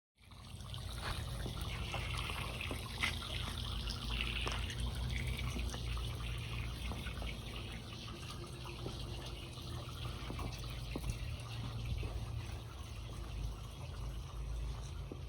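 Water running and splashing, with scattered small ticks and a steady low hum underneath.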